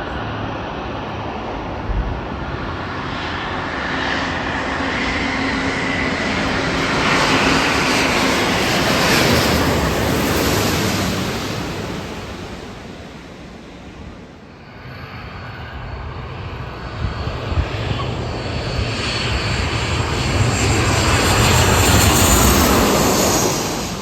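Jet airliner passing low overhead, its engine roar swelling, easing off about halfway through, then building again to its loudest near the end.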